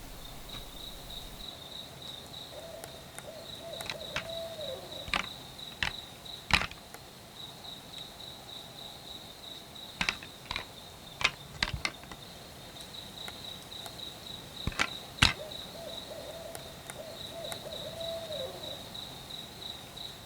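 An owl calling twice, a few seconds in and again near the end, each a long wavering call that drops in pitch at its close, over a steady high trill of night insects. Several sharp clicks come in between, the loudest of them in the middle stretch.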